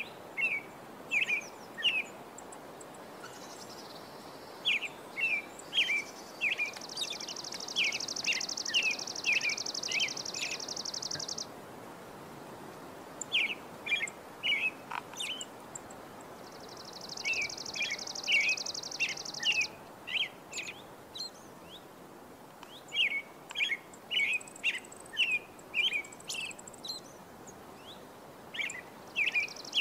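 Birds chirping in repeated runs of short, quick calls over a steady outdoor hiss. A higher buzzing trill comes in three times, lasting a few seconds each time.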